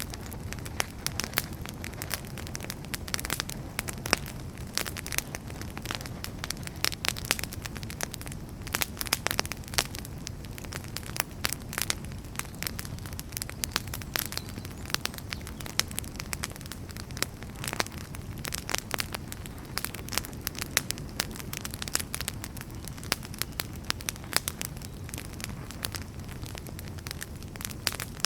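Wood fire burning steadily in a fireplace: a low rumble with many sharp, irregular crackles and pops from the burning firewood.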